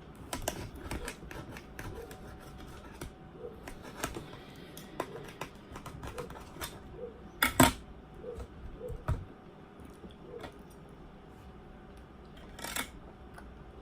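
Close-up eating sounds: chewing and small clicks of cutlery on a plate, with one louder knock about halfway through.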